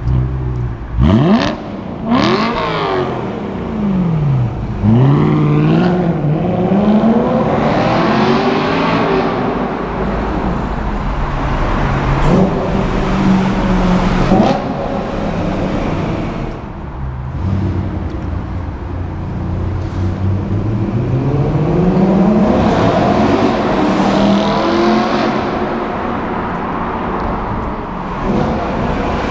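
BMW E92 M3's 4.0-litre V8 through a louder exhaust, the perforated pipes in its rear silencer wrapped in exhaust tape. Two quick sharp revs in the first few seconds, then longer pulls where the engine pitch climbs steadily over several seconds, holds and falls back, with a second long climb and fall later on.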